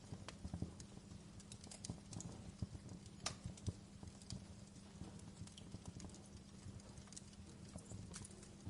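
Wood fire crackling in a fireplace: irregular snaps and pops, the sharpest about three seconds in, over a low steady hum.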